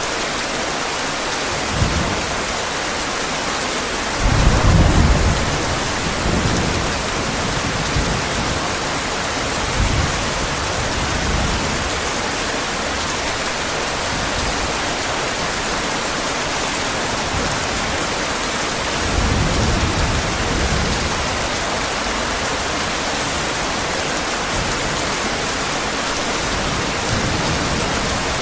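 Heavy rain falling in a steady hiss, with thunder rumbling low several times: a short clap about two seconds in, the loudest rolling rumble about four to five seconds in, and another long rumble about two-thirds of the way through.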